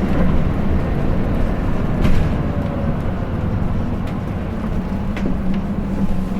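Hino Blue Ribbon City diesel city bus heard from inside the cabin while driving: a steady engine hum over road noise, with a few light clicks about two and five seconds in.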